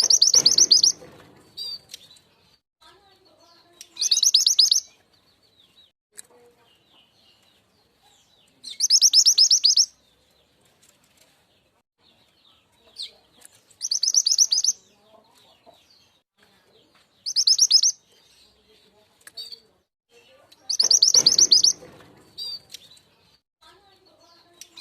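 Mantenan gunung (truntung weru) songbird calling: a rapid, high, buzzy trill about a second long, repeated six times at intervals of four to five seconds, with short single chirps between. It is a lure call recording used to draw in wild birds of the same species.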